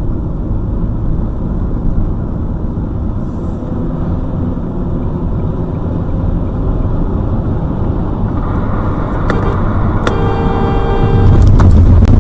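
Heavy truck running with a steady low rumble. About ten seconds in a whining tone and a few clicks join it, and it gets suddenly louder near the end.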